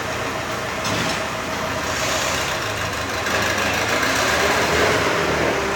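Motor vehicle engine running steadily amid loud, even background noise.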